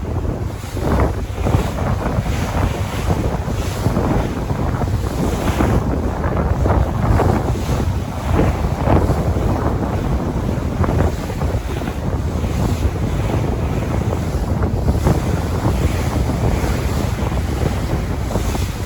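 Sea waves washing continuously, with wind buffeting the microphone as a heavy low rumble and irregular swells of noise.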